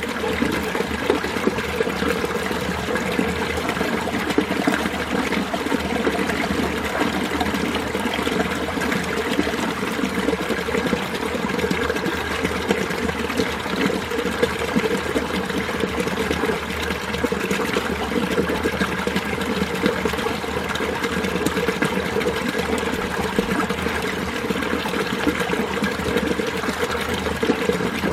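Winter mountain stream water flowing and splashing over rocks in a steady, unbroken rush.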